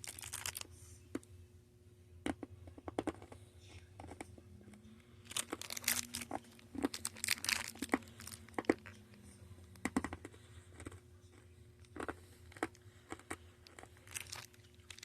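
Crinkling and crackling of plastic candy packaging being handled: bunches of sharp crackles, busiest in the middle and again near the end.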